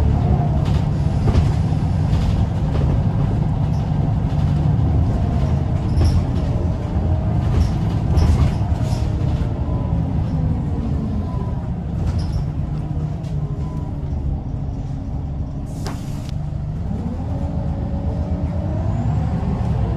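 Scania L94UB bus's diesel engine running under way; its revs fall for several seconds and then climb again as it pulls away. There is a short air hiss about three-quarters of the way through.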